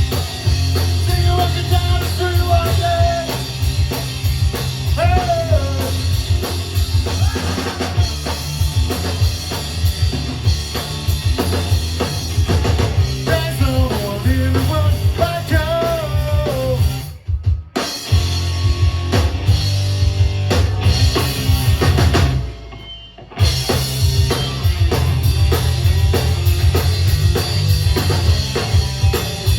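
Rock music with a full drum kit and heavy bass, and a sung melody over the first half. The band drops out briefly twice, once about two-thirds of the way in and again a few seconds later.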